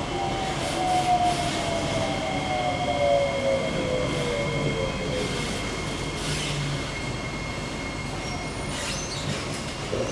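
Onboard a Kawasaki-CSR Sifang C151B EMU: the IGBT-VVVF traction motors' whine falls steadily in pitch over the first few seconds as the train brakes, with steady high tones above it.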